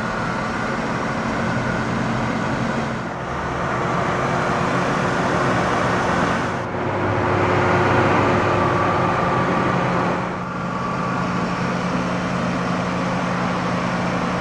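The 3.8-litre V6 of a 2002 Ford Mustang idling steadily under a broad rushing noise that swells and drops back every few seconds.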